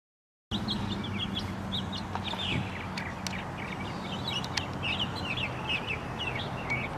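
After half a second of silence, many small birds chirping in quick, short calls, with a low steady hum underneath.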